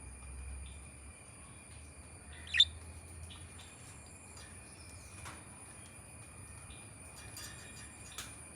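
Pet budgerigar giving one short, sharp chirp about two and a half seconds in, then a few faint chirps and clicks near the end.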